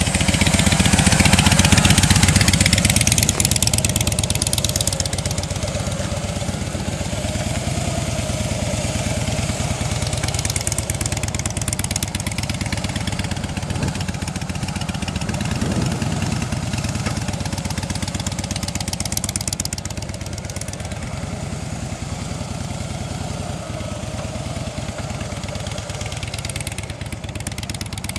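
2006 Harley-Davidson Softail Deuce's air-cooled V-twin engine running at low speed as the motorcycle weaves slowly through cones. It is loudest in the first few seconds as the bike passes close, then steady and a little fainter.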